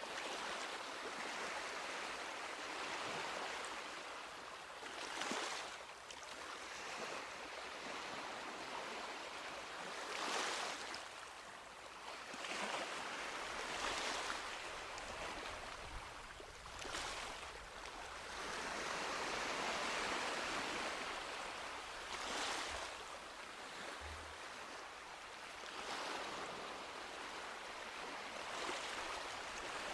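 Small sea waves washing onto a beach, a steady hiss of surf with a brief brighter splash every few seconds as waves break and run up the sand.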